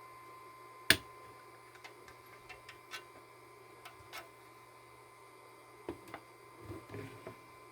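One sharp click about a second in, then scattered light clicks and taps, and a few softer knocks near the end, over a faint steady hum.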